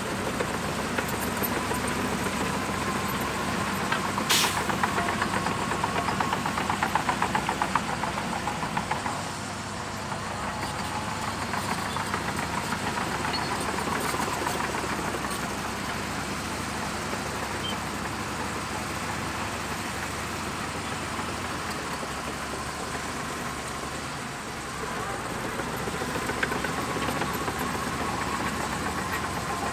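Shantui DH17C2 bulldozer's diesel engine running steadily while it works. There is a sharp knock about four seconds in and a rapid, rhythmic clatter from about five to eight seconds in.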